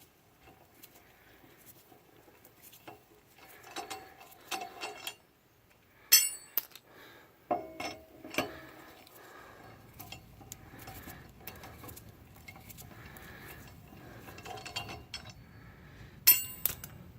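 Metal clinking of a T-handle lug wrench and steel lug nuts as the nuts are taken off a truck wheel: scattered sharp, ringing clinks, the loudest about six seconds in and again shortly before the end.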